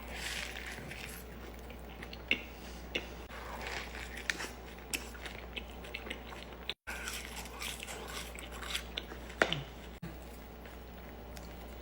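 Close-up eating sounds: a person biting and chewing crunchy fast food, with scattered sharp crunches over a steady low hum. The sound cuts out for a moment about two-thirds of the way through.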